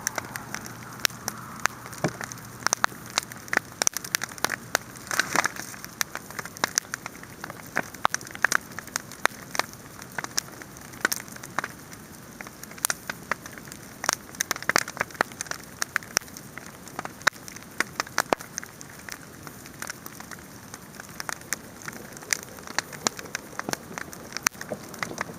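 Wood fire burning, with sharp, irregular crackles and pops over a steady hiss.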